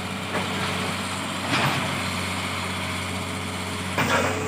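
Diesel engine of a Hitachi 200-class excavator running at a steady idle, a constant low hum; the fitted hydraulic breaker is not striking.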